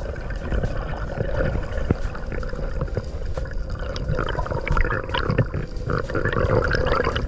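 Muffled underwater sound picked up through a camera housing while diving: a steady low rumble of moving water with scattered clicks and crackle throughout.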